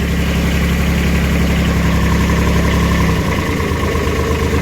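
A mini dumper's engine idling steadily, its tone changing about three seconds in.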